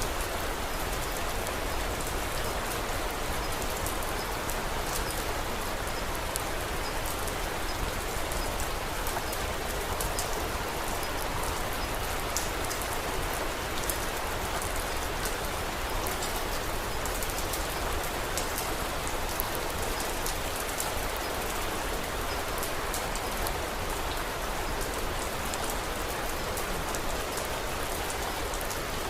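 Steady rain falling, an even hiss with a fine scatter of small drop ticks throughout.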